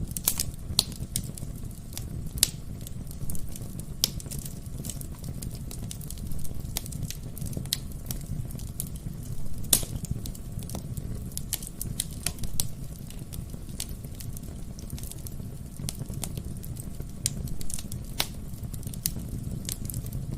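Wood fire burning in a fireplace: a steady low rumble of flames with irregular sharp crackles and pops from the burning logs, one louder pop about halfway through.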